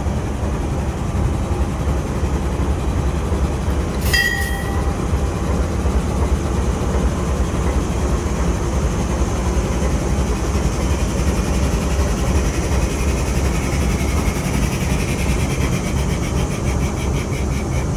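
Diesel locomotive engine idling with a steady, heavy low rumble. A short high squeal cuts in about four seconds in, and a fast high ticking joins near the end.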